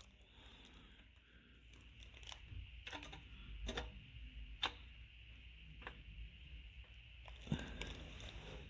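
A few scattered sharp clicks and knocks, the loudest about halfway through and again near the end, over a low, steady background hum.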